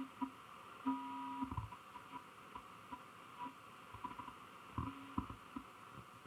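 Grundig Satellit 2100 shortwave receiver tuned between stations: faint static and crackle with scattered clicks, and brief steady whistles about a second in and again near five seconds.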